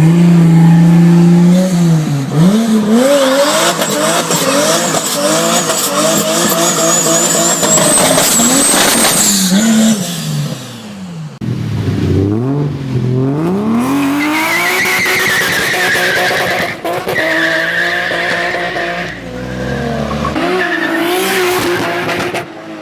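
Tuned car engine revving hard, its pitch climbing and dropping repeatedly as it is driven through the revs, with a high whine climbing near the middle. In the second half a wavering tire squeal joins it for several seconds.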